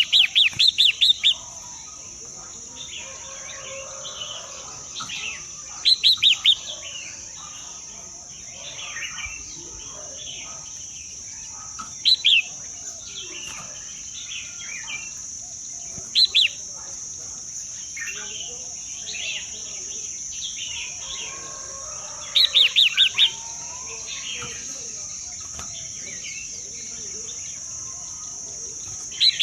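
Bird calls: a loud quick run of four or five chirps, repeated every four to six seconds, over softer scattered chirping and a steady high drone.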